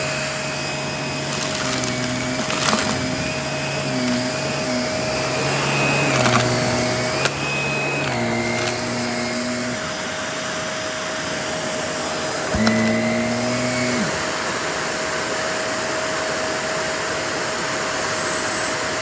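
Vacuum cleaner running steadily while sucking up cut-up cardboard puzzle pieces, with sharp clicks and rattles as pieces are drawn in. The pitch of the airflow hums and whistles shifts on and off during the first half, then settles into a steady run from about fourteen seconds in.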